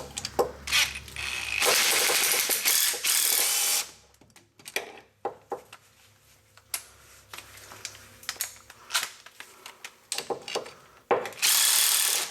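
Hand ratchet with an extension and deep socket clicking as it tightens the lock nut on a parking brake cable tensioner. A two-second run of rapid ratchet clicks comes about two seconds in and another near the end, with scattered single clicks between.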